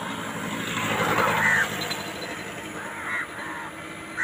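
Harsh bird calls over a steady background hiss: one loud call about a second in, then a few fainter ones near the end.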